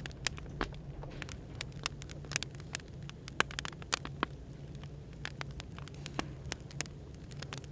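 Firewood burning with irregular sharp crackles and pops, over a steady low hum and hiss of café background noise.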